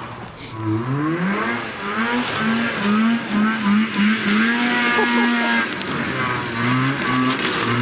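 Dirt bike engine revving up, then held high with brief dips, easing off near the end.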